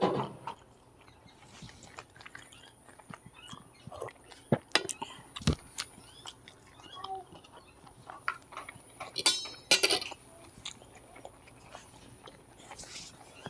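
Close-up mouth-closed chewing of omelette, with small scattered clicks and taps of fingers on a steel plate. About two-thirds of the way through comes a quick run of metallic clinks, the loudest sound, as a fork is moved on the steel plate.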